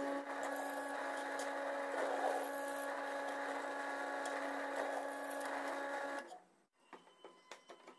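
An electric power tool's motor running steadily with a constant whine, then stopping abruptly about six seconds in, leaving only a few faint clicks.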